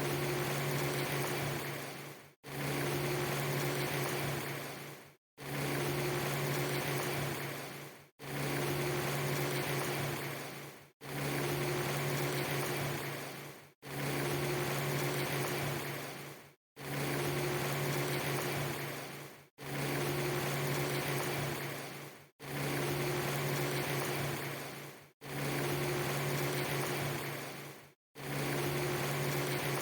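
Steady hissing noise with a strong low hum, a clip of under three seconds repeated over and over: each repeat fades down and drops to a brief silent gap, about ten times.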